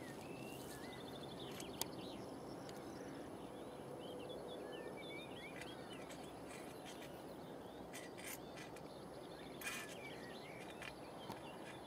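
Birds chirping and singing faintly over a steady low hiss of open-air noise, with a few short sharp clicks.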